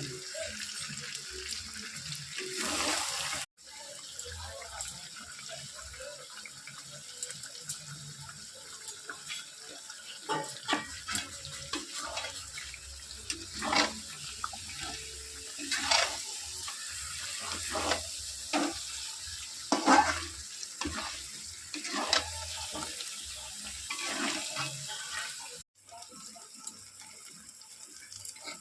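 Curry with turmeric sizzling in a hot pan, a steady hiss, with a metal spoon clicking and scraping against the pan as it is stirred. The sound cuts out briefly twice.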